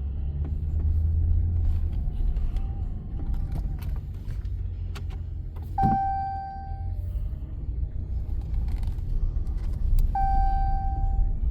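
A 2014 Dodge Ram 1500 pickup's engine running with a steady low rumble. Two one-second high steady tones sound about six and ten seconds in.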